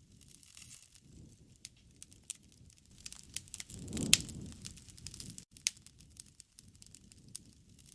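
Wood fire crackling, with scattered sharp pops over a low rush of flame; the flame noise swells about halfway through, peaking with a loud pop.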